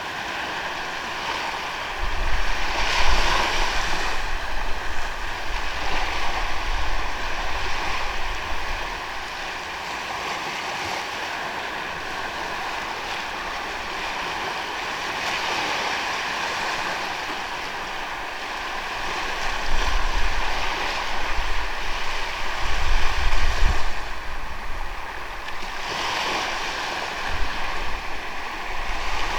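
Ocean waves washing onto a beach in a steady hiss of surf, with swells of breaking surf about three seconds in and again near the end. Wind rumbles on the microphone for a few seconds at a time.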